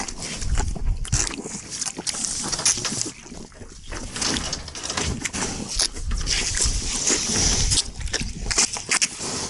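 Cattle moving about in a barn, with animal noises and many short knocks and rustles throughout.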